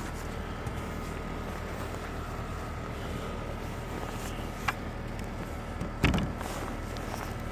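A car engine idling steadily, with a sharp click about halfway through and a short knock near the end.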